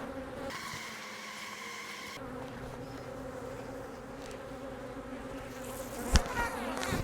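Honey bees buzzing in a steady drone around a hive being opened for harvest. A short hissing noise about half a second to two seconds in, and a sharp knock near the end.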